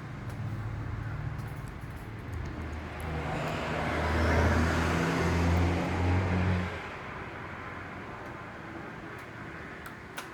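A motor vehicle running nearby, its engine hum and road noise swelling to the loudest about halfway through and then dropping away sharply. A single click near the end.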